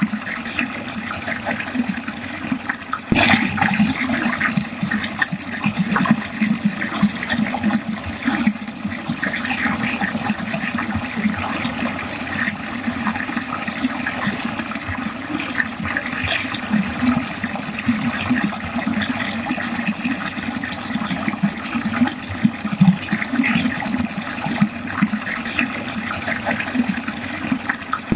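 Water draining steadily, with a constant flickering splash of flow into a drain. A single brief click comes about three seconds in.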